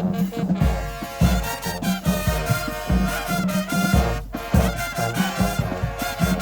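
High school marching band playing, with a brass section over a strong, steady beat of drums and low brass.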